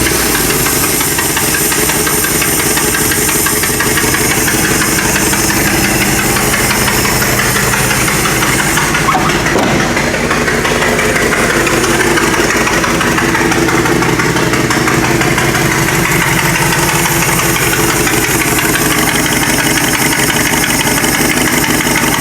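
Dodge 360 V8 engine running steadily with an even pulse on its freshly rebuilt two-barrel Holley carburetor. It has an exhaust leak from a big hole in the exhaust pipe.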